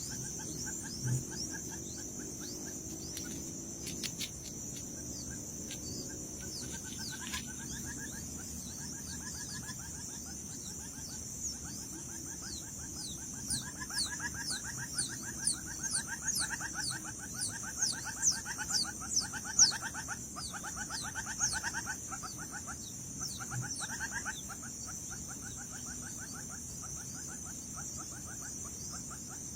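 Outdoor chorus of wild animals: a steady high-pitched buzz runs throughout. Rapid pulsing calls and a run of quick, falling chirps join it, peaking about two-thirds of the way in.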